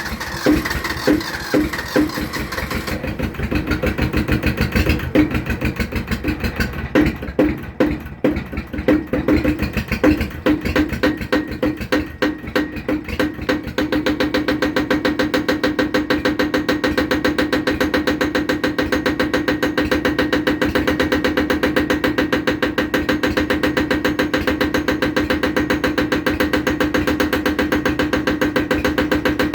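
Two-cylinder, non-turbo Yanmar diesel tractor engine just after a cold start, firing unevenly with loud irregular knocks. About halfway through it settles into a steady, even idle as it warms.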